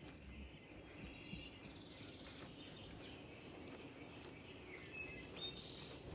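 Faint outdoor ambience with a few short, high bird chirps, the clearest near the end.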